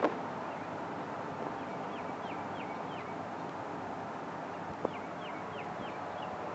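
A bird calling in two runs of four or five short, falling chirps, about three a second, over a steady outdoor hiss. There is a faint knock near the middle.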